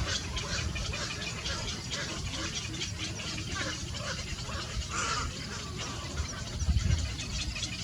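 Small birds chirping in a rapid, continuous stream of short high calls, over a low rumble that swells briefly about seven seconds in.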